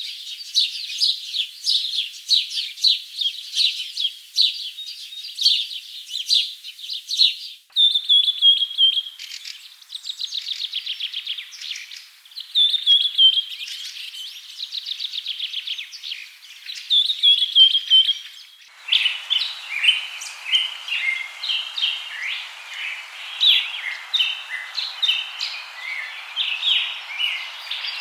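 Birds chirping and singing in rapid high trills and calls. The sound changes abruptly about 8 seconds in and again about 19 seconds in, and in the last part a steady background hiss lies under the birdsong.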